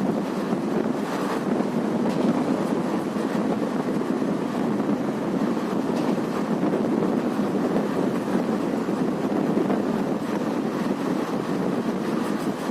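Passenger train running at speed, heard from aboard: a steady rumble with wind rushing past the microphone and a few faint clicks.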